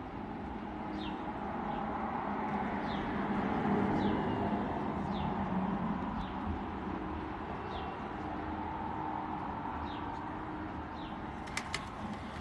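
A small bird chirping repeatedly, short high downward chirps a little under a second apart, over a steady outdoor background hum. Near the end, a few sharp clicks and rustles as the phone is handled.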